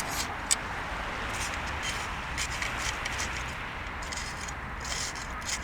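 Bonfire burning with scattered sharp crackles and pops, a strong pop about half a second in and a cluster near the end, over a steady rushing noise.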